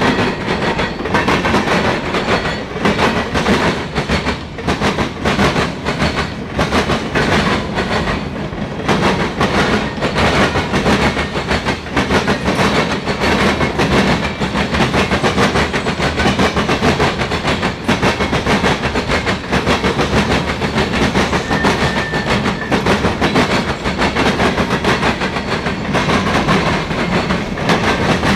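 Norfolk Southern mixed freight train's cars rolling past, wheels clacking over the rail joints in a steady, continuous run of clicks.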